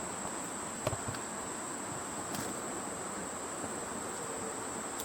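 Steady high-pitched insect drone that holds one unbroken pitch, over a soft background hiss, with a few faint clicks, the clearest about a second in.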